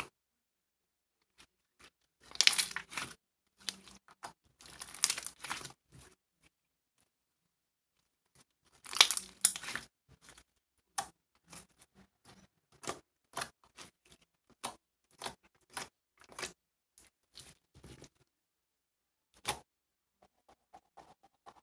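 Crinkling and tearing sounds in three short bursts, followed by a string of short clicks and taps spaced about half a second apart.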